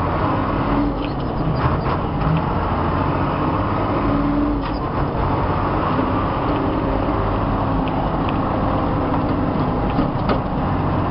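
Ford L8000 truck's engine running steadily as the truck moves slowly in low gear, heard from inside the cab, with scattered knocks and creaks from the truck's body.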